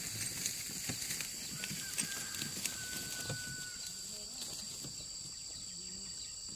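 Insects droning steadily at a high pitch, with scattered light clicks and rustles and a brief whistle-like tone near the middle.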